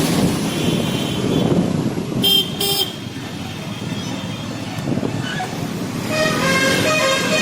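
Road traffic heard from a moving motorbike, with steady wind and road noise. A vehicle horn gives two short toots about two seconds in, and more honking starts near the end.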